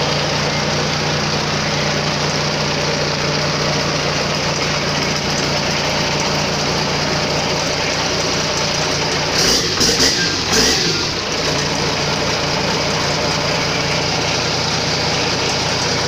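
Toyota 12H-T turbo-diesel straight-six idling steadily, with a few brief louder moments about ten seconds in.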